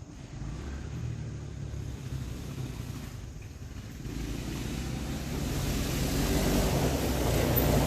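Small off-road engines running, steady at first and growing louder from about halfway through as they come closer.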